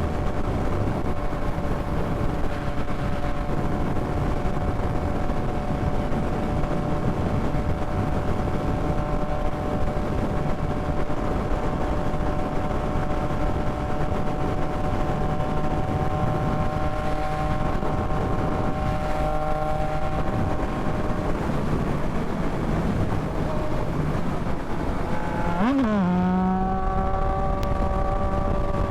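Yamaha MT-09 inline three-cylinder engine running steadily while riding, with rushing wind noise. Near the end the engine note dips sharply and swoops back up, then holds at a new steady pitch.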